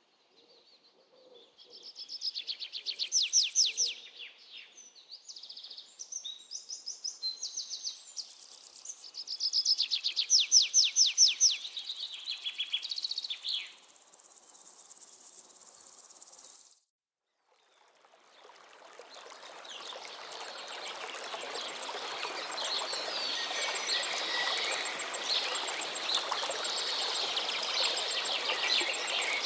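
Small songbirds singing in rapid trills and short phrases, one after another. After a brief break it changes to a dense chorus of many birds and insects, which swells and then holds steady.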